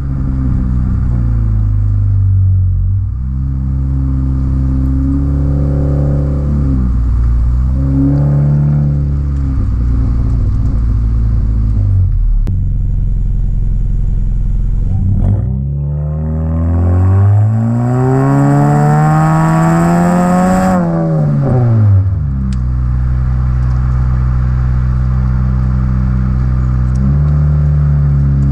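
2016 Honda Civic LX's K20C2 2.0-litre four-cylinder through a Flowmaster dbx pipe fitted in place of the resonator. The engine note rises and falls a few times in quick succession, then, just past halfway, climbs steadily for about five seconds before dropping back and settling to a steady lower note.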